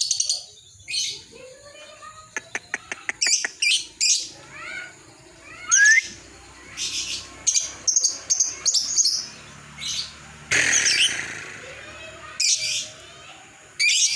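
Lovebird calling in short, high-pitched chirps and squeaks with gaps between them. A quick run of clicks comes about two seconds in, and a longer, harsher call a little past the middle.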